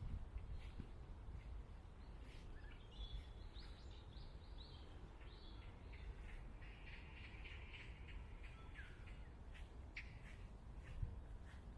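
Small birds chirping in woodland. A quick run of short high notes comes a few seconds in, then a longer spell of twittering, over a low rumble with a few faint clicks.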